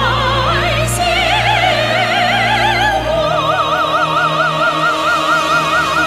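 Operatic-style singing with a wide, even vibrato over orchestral accompaniment; the voice sings one word, then holds a long vibrato note from about halfway through.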